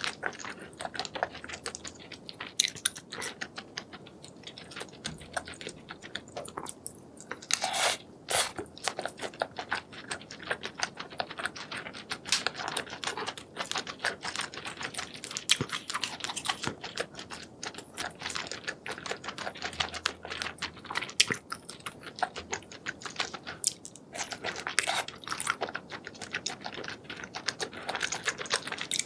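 Close-up chewing and biting of spicy seafood, a dense run of sharp crunches, clicks and wet crackles with a few louder snaps.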